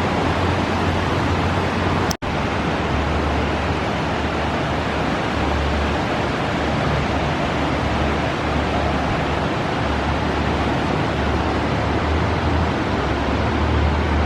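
Steady rushing roar of the Niagara River's rapids, an even noise with a shifting low rumble underneath. It cuts out for an instant about two seconds in.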